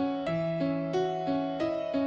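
Background music played on a keyboard instrument: a steady pattern of single struck notes, about three a second, each ringing on.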